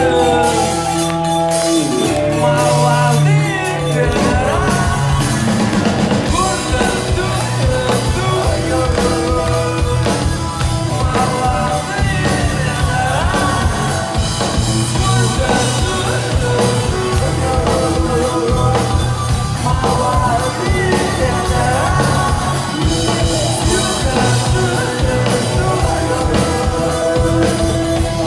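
Live rock band playing, with sustained guitar chords; the drum kit comes in with a steady fast beat about four seconds in.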